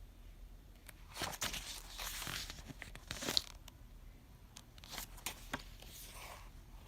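Rustling, crinkling handling noise in two spells, with scattered sharp clicks.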